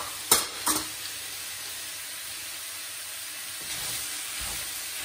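Lamb pieces and onions frying in a pan, a steady sizzle, with two sharp taps about half a second in. Near the end a wooden spoon starts stirring the meat and spices, adding scraping to the sizzle.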